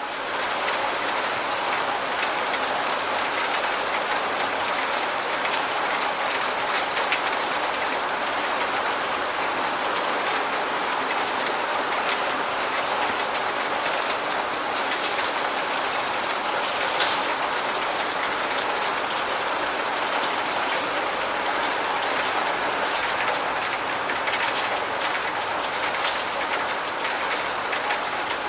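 Steady rain: a constant hiss with a dense patter of individual drops.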